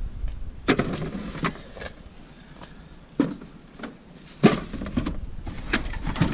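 A series of sharp knocks and clatters from objects being handled and set down, about six in all, the loudest about four and a half seconds in, over a low rumble.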